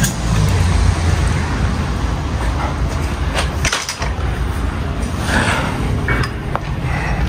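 Diesel truck engine running with a steady low drone, with a few short knocks or clatters over it.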